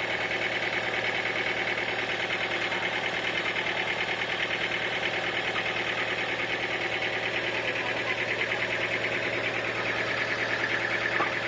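Sawmill machinery running steadily with a fast, even pulsing and a constant low hum.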